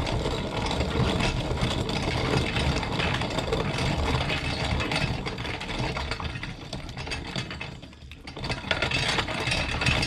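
Antique hand-cranked corn grinder cracking whole corn: a steady mechanical grinding and rattling as the wheel is turned, easing off briefly about eight seconds in before picking up again.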